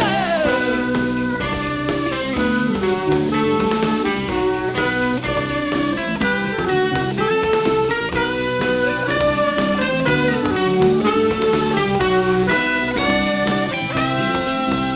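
A live rock band playing an instrumental passage, with guitar over drums and a steady rhythm section.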